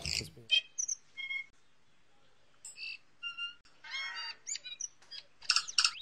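Short bird chirps and whistles in irregular, varied bursts, the loudest cluster near the end.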